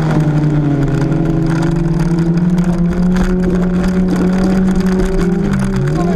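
Wreck-race car's engine held at steady high revs, heard from inside the cabin; the pitch dips and wavers briefly near the end.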